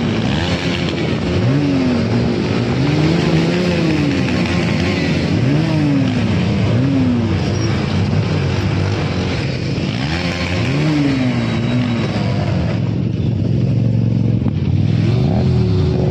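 Motorcycle engine revved up and down repeatedly, the pitch rising and falling about every second or two, then settling to a steady idle near the end.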